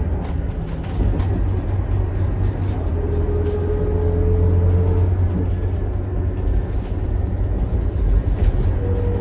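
Scania K280IB bus's 9.3-litre five-cylinder Scania DC9 turbodiesel running under way: a steady low drone, with light clicks and rattles scattered through it.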